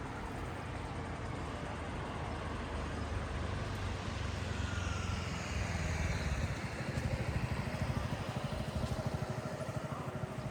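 A motor vehicle driving past on a city street: a low engine rumble that grows louder past the middle, with a hiss that sweeps down and back up as it goes by.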